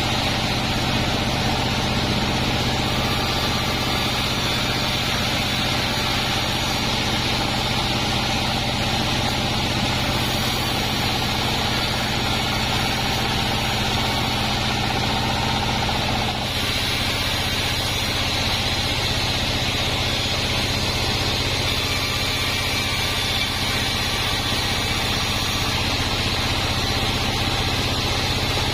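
Band sawmill machinery running steadily and loudly, with a constant mechanical drone. Its tone changes abruptly a little over halfway through.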